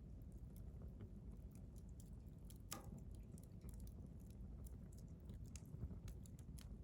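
Wood fire crackling faintly in a stainless steel fire grill: scattered small pops and snaps, with one sharper snap about three seconds in, over a low steady rumble.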